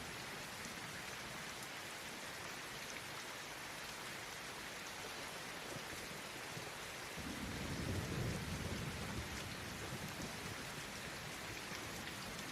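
Steady rain. A low rumble swells about seven seconds in and fades over the next two seconds or so.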